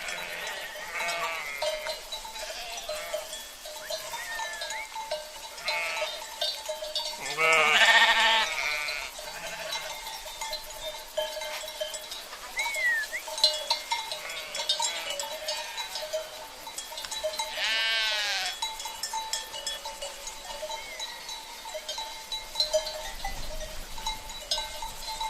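A flock of sheep bleating among the steady clanking of sheep bells (cencerros). Two bleats stand out as louder, one about eight seconds in and one about eighteen seconds in.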